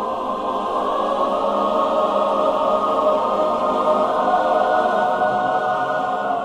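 Choir singing long sustained chords as background music, swelling slightly in the middle.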